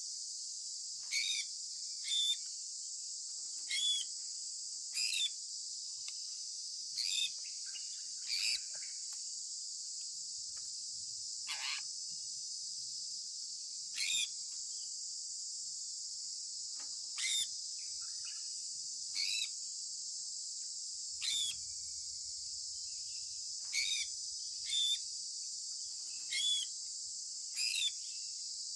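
Sun conure parrot giving short, sharp chirps every second or two, each falling quickly in pitch, over a steady high-pitched drone of insects.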